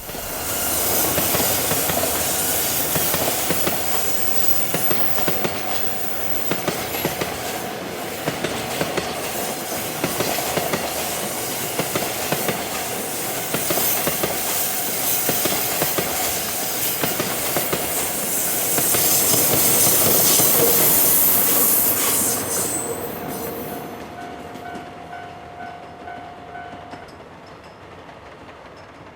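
A train passing close by, its wheels clacking over the rail joints; the sound rises suddenly at the start, stays loud for about twenty seconds, peaks near the end of the pass, then fades away.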